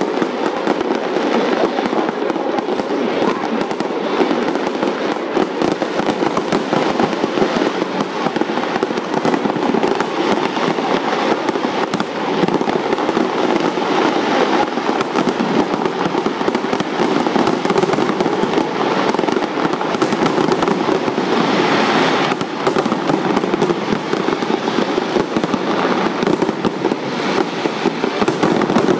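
Large fireworks display going off without pause: dense, rapid bangs and crackling. A brighter, hissier stretch comes about two-thirds of the way through.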